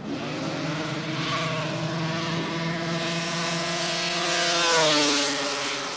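Racing snowmobile's two-stroke engine running hard on a grass drag strip, its pitch climbing to the loudest point nearly five seconds in and then dropping as it goes by.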